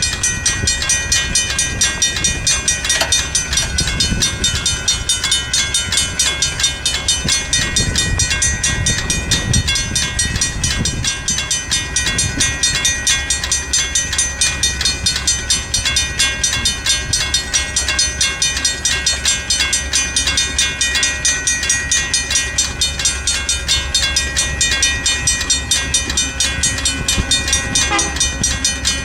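Mechanical grade-crossing bells, a WRRS and a Safetran, ringing rapidly with about four strokes a second. The WRRS bell is dying.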